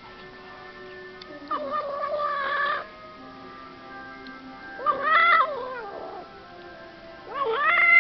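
Domestic cat yowling in three drawn-out calls, each rising and then falling in pitch, about a second or more apart. The third and loudest comes near the end.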